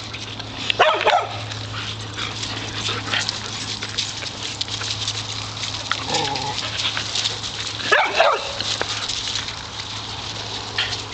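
A group of dogs barking and yipping, with two louder outbursts of barking, about a second in and about eight seconds in.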